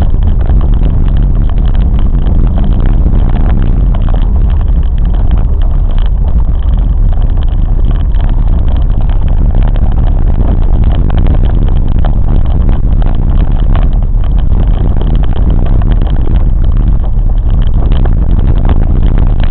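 Train running along the track: a loud, steady rumble that is heaviest at the low end, with no clear beat of rail joints.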